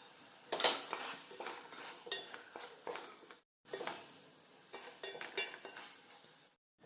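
A metal spoon or ladle clinking and scraping against a metal pot or dish in irregular strokes, some clinks ringing briefly. The sound drops out for a moment about three and a half seconds in.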